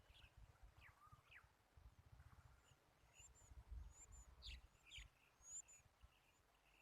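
Faint bird chirps: short, quick high calls scattered through, busiest around the middle, over a low rumble.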